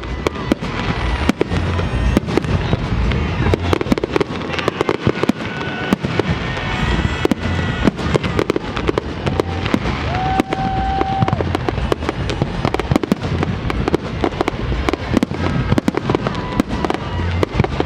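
Fireworks display with a dense, continuous run of sharp bangs and crackles from bursting aerial shells.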